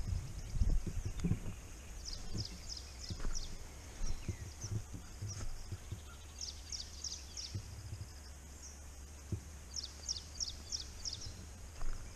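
A bird calling from the forest in runs of four or five short, high notes, repeated several times, over a low rumble.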